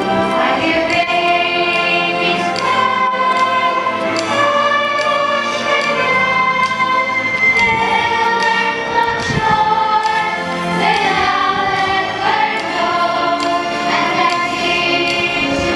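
Choir singing with musical accompaniment, voices holding and moving between long notes.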